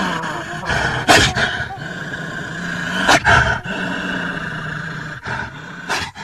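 A werewolf growling and roaring, with three sharp loud hits about a second, three seconds and six seconds in.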